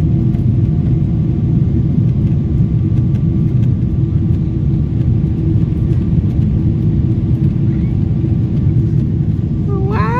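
Inside the cabin of a Boeing 777 in its climb after takeoff: a loud, steady low roar from its GE90 engines at climb thrust and the air rushing past, with a steady hum through it.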